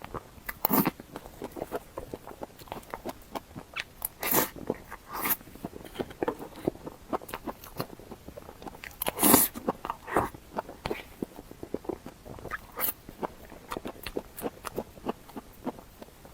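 Close-miked eating: irregular biting and chewing with crunchy, crackly clicks, the loudest bite about 9 seconds in.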